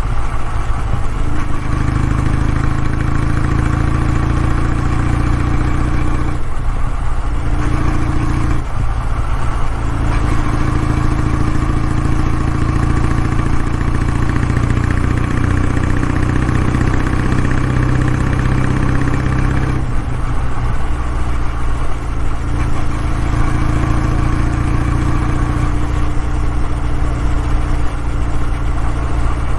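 Kawasaki W650's air-cooled parallel-twin engine running steadily through its exhaust. The note briefly eases a few times, about six, nine and twenty seconds in.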